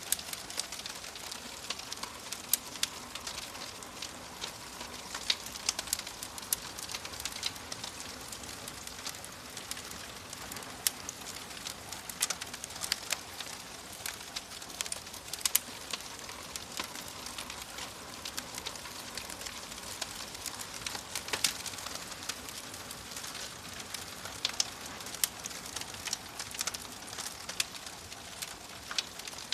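Wood fire in a fireplace crackling: irregular sharp pops and snaps over a steady hiss.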